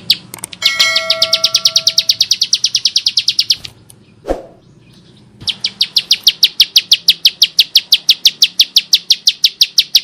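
Ciblek sawah, a prinia, singing in a rapid, harsh ticking trill of about a dozen sharp notes a second. The first run lasts about three seconds, and after a short pause a second run begins about halfway through.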